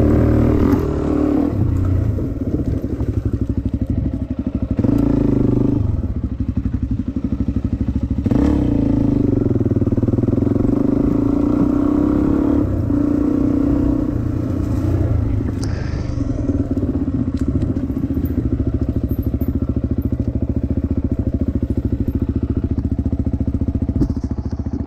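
Dirt bike engine running under way, the revs rising and falling with the throttle. There are short, louder bursts of throttle about five and eight seconds in.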